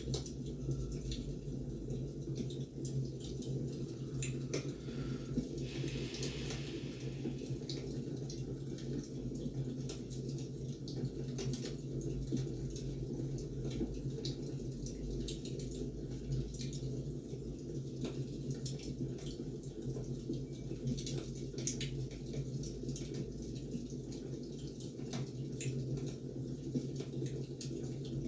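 Wood fire crackling: irregular sharp pops and snaps of burning firewood over a steady low rumble, with a brief rustle about six seconds in.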